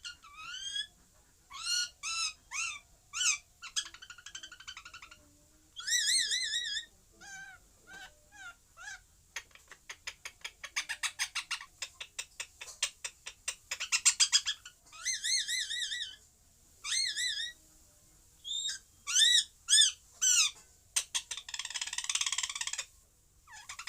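Pet parrot calling: a string of short, high-pitched squawks and warbling calls, with a run of rapid clicks about ten seconds in and a harsher, rasping call near the end.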